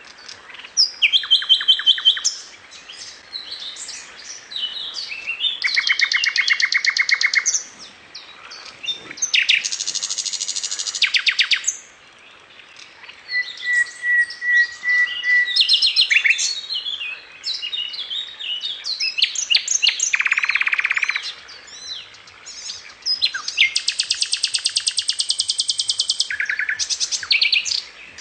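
Birds chirping and singing. Long fast trills of rapidly repeated notes, each lasting one to three seconds, alternate with shorter chirps and a short series of even whistled notes.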